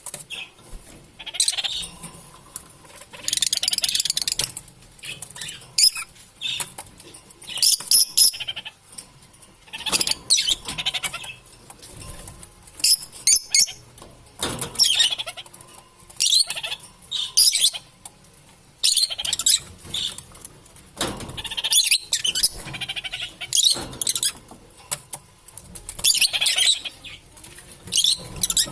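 Lovebirds chirping and chattering in shrill, high-pitched bursts that come every second or two with short gaps between.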